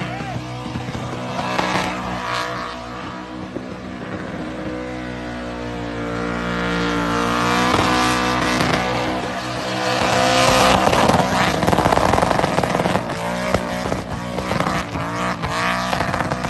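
A car engine held at high revs during a burnout, with the drive tyres spinning and smoking on the pad. The revs rise and fall, climbing noticeably about six seconds in.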